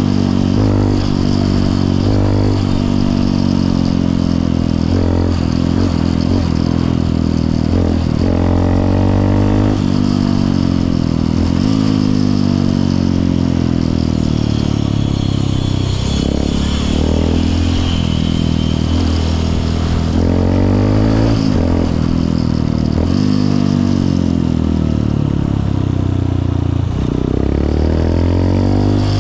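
Honda CRF150L's single-cylinder four-stroke engine under way, its pitch repeatedly rising as it accelerates and dropping back at gear changes and throttle lifts, with steady road noise underneath.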